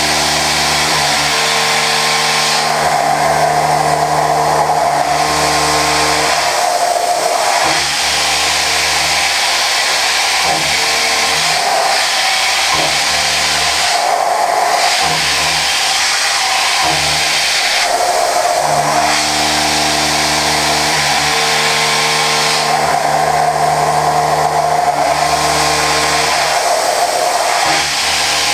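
Okuma GENOS M560V vertical machining centre high-speed milling prehardened 4140 steel: a steady hiss of cutting under a hum of several pitched tones. The hum comes in passes of a few seconds and breaks off briefly several times as the end mill goes in and out of the cut.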